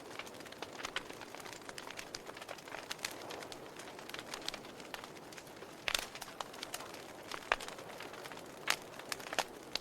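Wood fire crackling in a fireplace: a low steady hiss with irregular sharp pops and snaps, the loudest pops about six seconds in and near the end.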